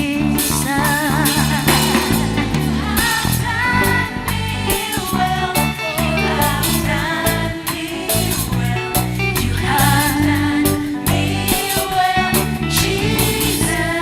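Live gospel worship band playing with a sung vocal line over guitar, bass and drums.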